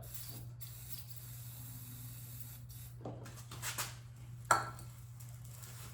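A couple of short squirts of aerosol carb cleaner hissing into a snowblower engine's cylinder through the spark plug hole, priming it to test whether the engine lacks fuel. There is a sharp knock with a brief ring about four and a half seconds in, over a steady low hum.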